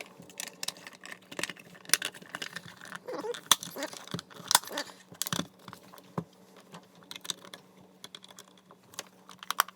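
Scattered sharp clicks and taps of the flip clock and its small parts being handled, several seconds apart, over a faint steady hum.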